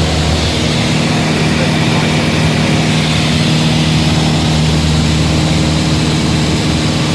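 Single-engine propeller airplane's piston engine running at a steady, unchanging drone, with propeller noise over it.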